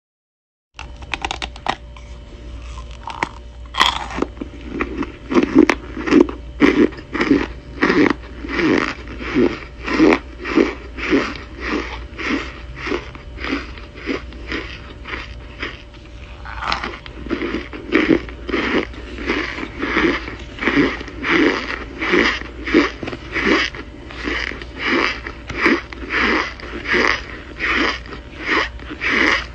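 Chewing of pressed chunks of cornstarch, a crunch on each bite, at a steady rhythm of about two chews a second. It starts suddenly about a second in, after silence.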